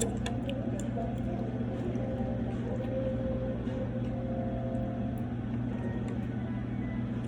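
Steady restaurant room hum with faint background chatter, and a few light clinks of utensils on dishes right at the start.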